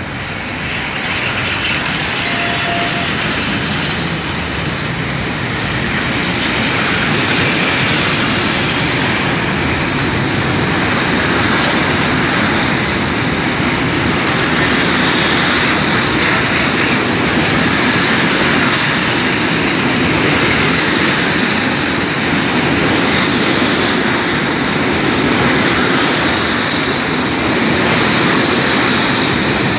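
Freight train of hopper wagons running past on the rails: a continuous loud din of wagon wheels on track with a steady high hiss over it, growing louder over the first couple of seconds and then holding steady.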